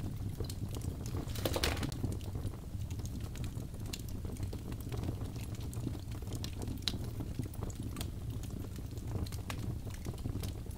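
Birch logs burning in a fireplace, crackling: a steady low rumble of flame under frequent sharp pops and snaps, with a louder flurry of pops about one and a half seconds in.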